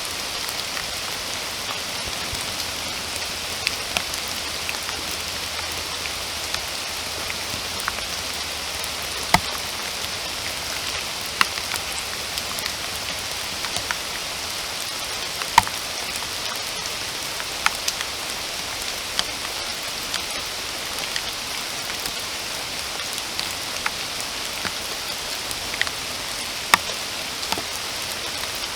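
Steady rain falling with an even hiss, dotted with individual drops striking close by as sharp ticks, a few of them louder than the rest.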